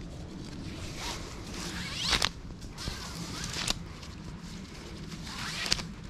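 Hammock and its straps being handled and pulled during set-up, with four quick rising rasps, about one, two, three and a half and nearly six seconds in.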